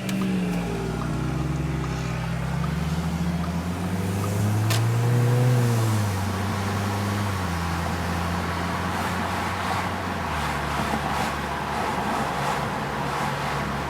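Audi A4 2.0T turbocharged four-cylinder engine under way through a stainless turbo-back exhaust with a high-flow cat. The engine note climbs to a peak about five seconds in, drops back, then settles into a steady drone with a smaller drop later on.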